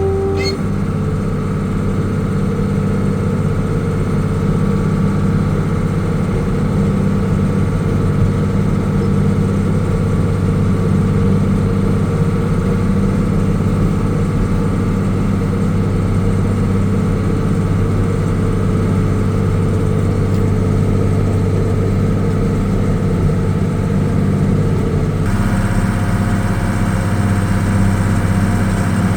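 Case 2290 tractor's diesel engine running steadily under load while pulling a disc harrow. Its note shifts near the end.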